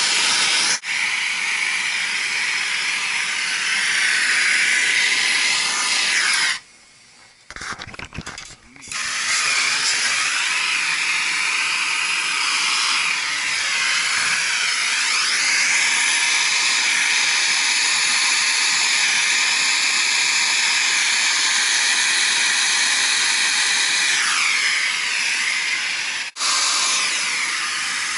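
A power tool running almost without pause, its pitch sagging and recovering a few times as it takes load, and stopping for about two seconds a quarter of the way in.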